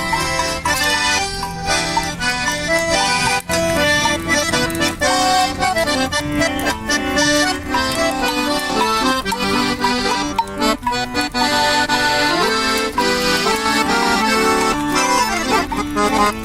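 Accordion playing a lively traditional festa junina (forró-style) instrumental passage, with fast-changing melody notes over held bass notes and light percussion.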